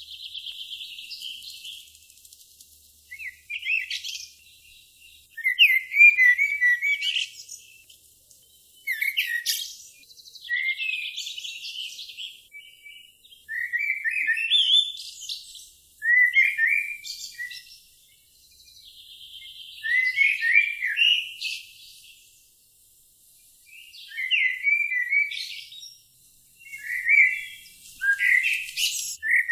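Songbird singing short high phrases of chirps and trills, one phrase every two to four seconds.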